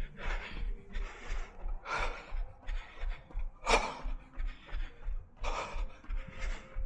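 A runner breathing hard mid-run, in quick, regular puffs, over a steady low thud of footfalls about three a second.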